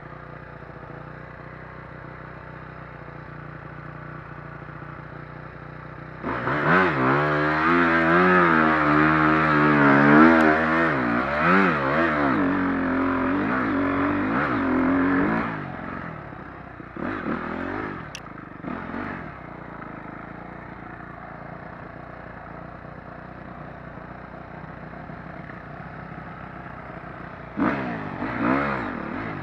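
Dirt bike engine idling, then revved hard from about six seconds in for around ten seconds, its pitch rising and falling with the throttle, followed by a few short throttle blips, the last near the end.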